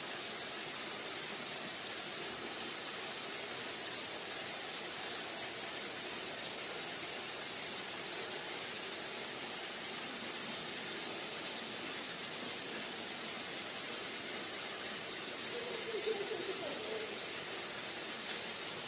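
Waterfall, its falling water rushing in a steady, even hiss. About sixteen seconds in, a brief pitched sound rises above it.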